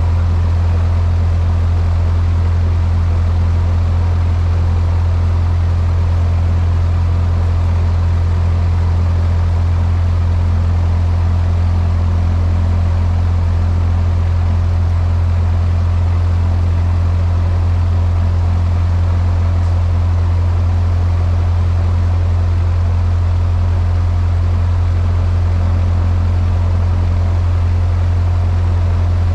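Cessna 152's four-cylinder Lycoming O-235 engine and propeller droning steadily inside the cockpit, holding a constant pitch and loudness at a fixed power setting.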